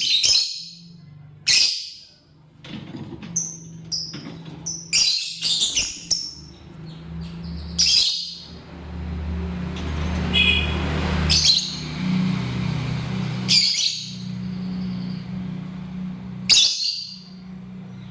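Lovebirds giving short, shrill, piercing calls, about eight of them spaced a second or more apart, with a few softer high chirps between, over a low steady hum.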